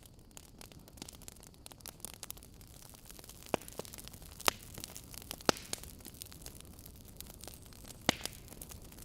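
Wood fire burning in a fireplace: logs crackling with frequent small pops and a few louder snaps, over a low steady rush of the flames.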